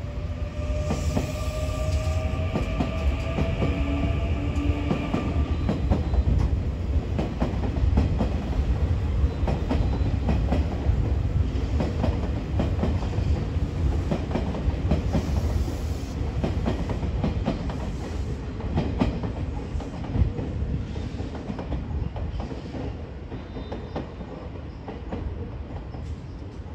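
Nankai electric commuter train running along the tracks below: a heavy rumble with a run of wheel clicks over the rail joints. A motor whine rises slightly in pitch over the first few seconds, and the rumble eases as the train draws away near the end.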